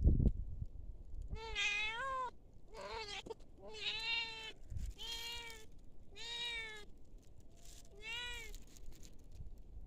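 A cat meowing repeatedly: six separate meows, each under a second long, the first about a second and a half in.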